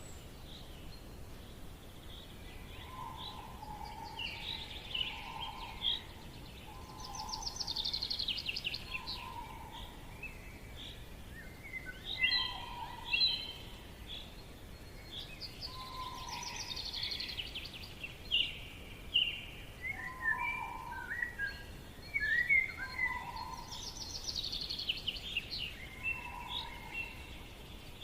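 Several songbirds singing in a forest, with overlapping trilled phrases and quick chirps. A lower, short whistled note recurs every second or few.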